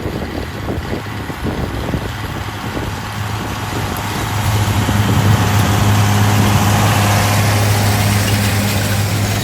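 An engine running with a steady low hum that grows louder about halfway through, over a rushing noise, with irregular knocks in the first half.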